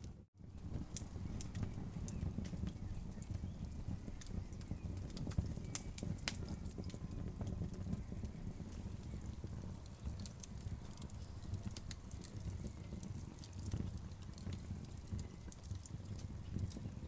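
Wood fire crackling, with frequent irregular sharp pops and snaps over a steady low rumble. The sound drops out for a split second right at the start.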